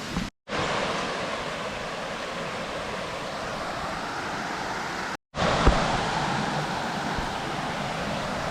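Steady rush of falling water from a creek's cascades and waterfall, dropping out briefly twice where the footage is cut. A brief low thump a little past halfway.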